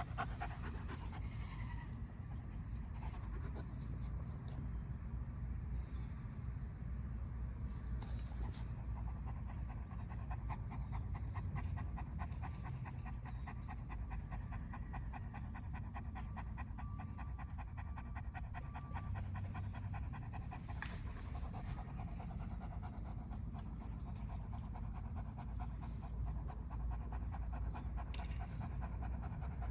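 A dog panting fast and steadily over a low, steady rumble, with two brief hissing noises, about eight and twenty-one seconds in.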